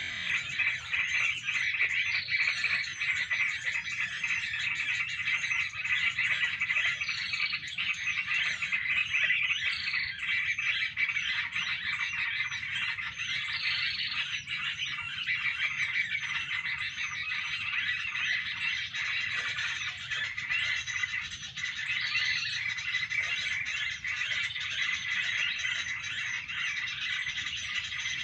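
A dense, continuous chorus of many overlapping animal calls, busy chirping and croaking with no pause.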